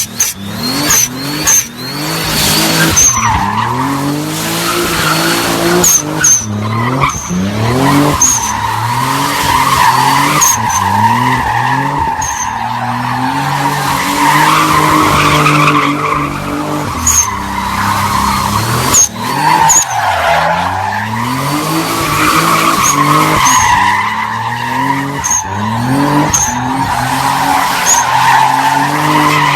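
Nissan 300ZX sliding with its tyres squealing steadily while the engine is revved up and let off again every second or two, as in a drift.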